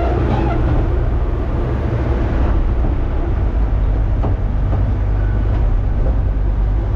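Large engine running steadily with a deep, even hum and a rattling haze over it, the sound of a heavy machine working under power. The machine is slow-working.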